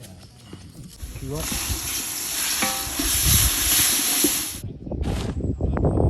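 Steady sizzling hiss of food frying, which cuts off abruptly about four and a half seconds in, followed by low rustling and knocking.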